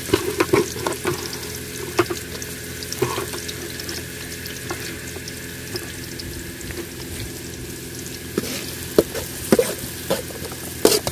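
Chopped onions and green chillies sizzling in hot oil in a kadai, with a spatula clicking and scraping against the pan now and then, more often near the end.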